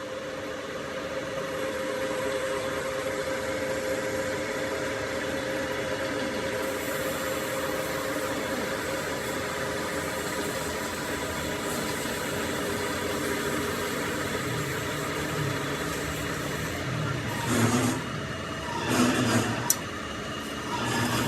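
A machine tool running steadily with a constant whine, with a few louder scraping or knocking sounds near the end.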